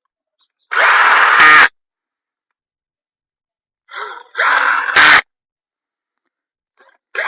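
Cordless drill-driver running crankcase bolts down in short bursts, three times about three seconds apart, pinching the engine's crankcase halves together. Each burst ends in a brief, louder spell as the bolt seats.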